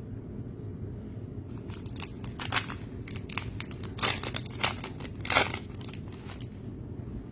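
Plastic trading-card pack wrapper crinkling and tearing in a run of short crackles, loudest a little past halfway.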